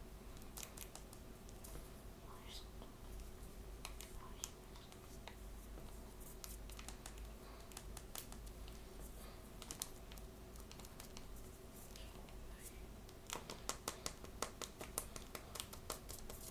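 Faint scratching and clicking of small blind-bag packaging being handled and opened by hand, with a quick run of sharp clicks and crinkles in the last three seconds.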